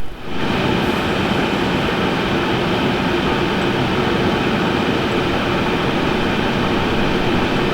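Air fryer running while it cooks, its fan giving a loud, steady whir with a faint hum in it.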